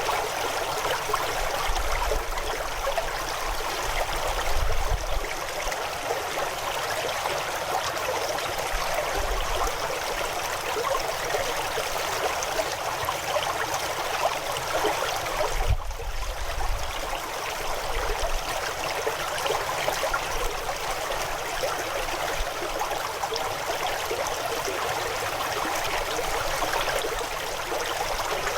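River water running over stones, a steady rushing and gurgling flow.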